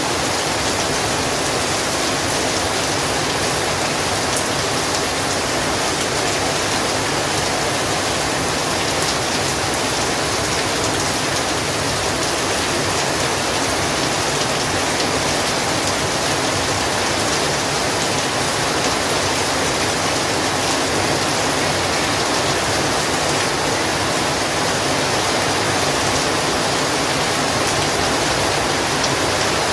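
Heavy rain falling steadily, an even hiss of downpour without breaks.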